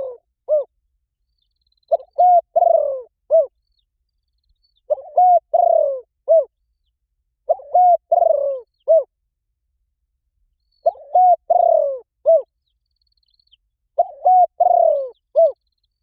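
Spotted dove cooing: a phrase of four or five low, arched coos, with a short last note set slightly apart, repeated about every three seconds with silence between. This is the cooing call used to draw wild doves.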